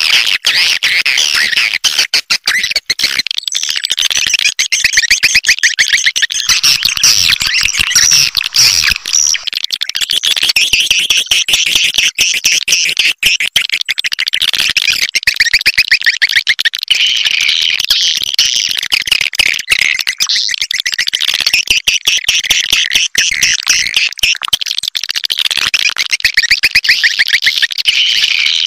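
A recording of swiftlet calls: many swiftlets chattering at once in a dense, unbroken twitter of rapid, clicking, high-pitched trills. This is the kind of lure call played from swiftlet houses to draw the birds in to roost and nest.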